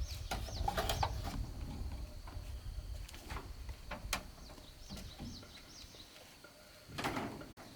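Short, high falling bird chirps repeating a few times a second over a faint steady high drone, with scattered sharp knocks and a brief cluster of them near the end.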